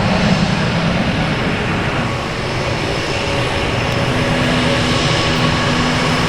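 F-15 Eagle's twin jet engines running, a loud steady rush with a faint steady whine over it.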